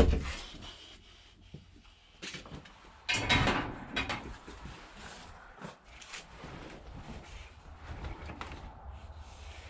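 A sharp knock, then scraping and rustling handling noises with a few lighter knocks, loudest about three seconds in.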